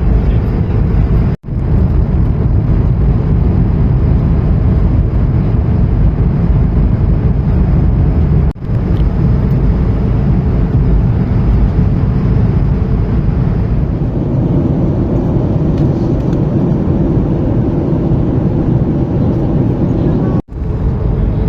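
Steady low rumble inside the cabin of an Airbus A220-300 airliner in flight, broken by three brief dropouts.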